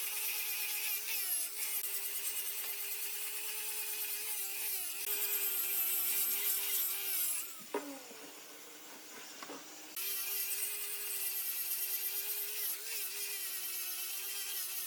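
An electric woodworking machine running and cutting wood: a steady motor whine over a hiss of cutting noise, with the pitch dipping briefly a few times. The cutting sound stops for a couple of seconds around the middle, with a short knock as it drops, then starts again.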